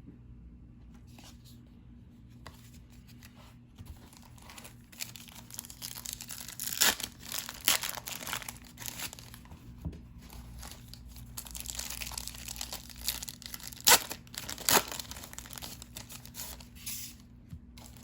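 Paper wrappers of 1990-91 NBA Hoops basketball card packs being torn open and crinkled, starting a few seconds in, with several sharp rips, the loudest about halfway through and again near the three-quarter mark.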